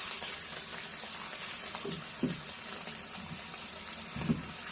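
Sliced pork stir-frying in hot oil in a pan: a steady sizzle, with two short low knocks about two and four seconds in.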